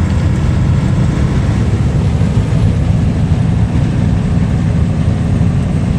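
Logging truck's diesel engine running steadily under way, heard from inside the cab, a constant low rumble mixed with road noise.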